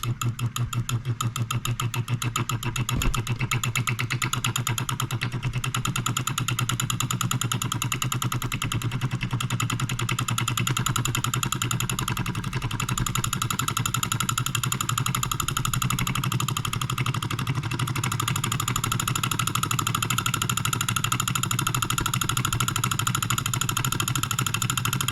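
Wilkemp Jr. Model E electric solenoid engine running on its own, a fast even clatter of strokes over a steady electric hum from its coil. It picks up speed over the first couple of seconds, then runs steadily, a little out of balance.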